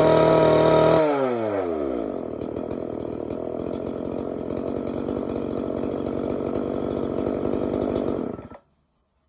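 Yamabiko CSG-673SL two-stroke engine cutter running at high revs, then the throttle is let go and the engine falls back to a steady idle. Near the end the engine is switched off and stops abruptly.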